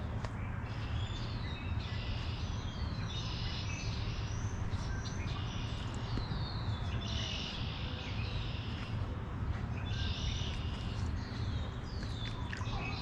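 Songbirds singing, a short phrase with a falling slur and a trill repeated every two to three seconds, over a low steady rumble.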